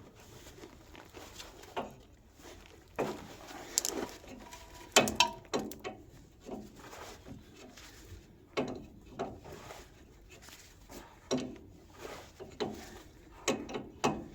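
Scattered metallic clinks, knocks and scrapes of hand tools on a fuel pipe and its fittings being undone, one sharp knock with a brief ringing about five seconds in.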